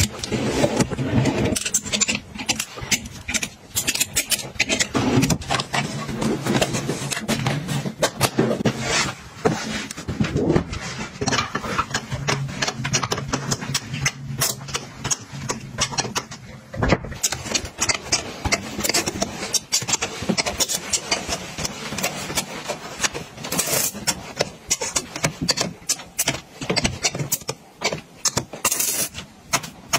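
Continuous handling noise of household items being arranged: quick clicks, knocks, rattles and scrapes as objects are picked up and set down.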